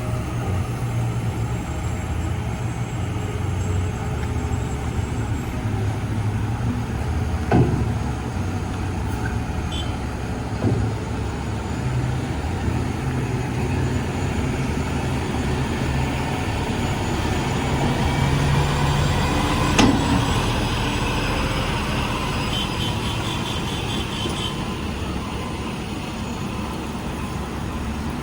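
Heavy diesel construction machinery running steadily, with three sharp knocks, the loudest about two-thirds through. Near the end comes a quick run of short high beeps.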